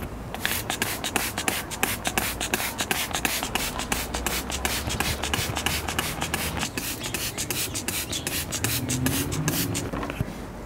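Rapid rhythmic rasping strokes, about five a second, like something being scrubbed or rubbed by hand; they start about half a second in and stop near the end.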